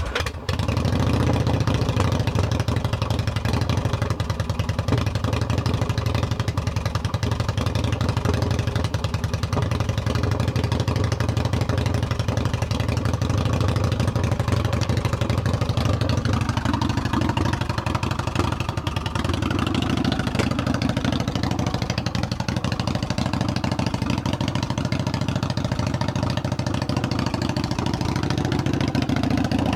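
Yamaha V-Star 1100's air-cooled V-twin, breathing through Cobra headers cut down to short wrapped shotgun tips, catches just after the start and then idles steadily with a loud, open exhaust note. The idle rises and falls gently a few times in the second half.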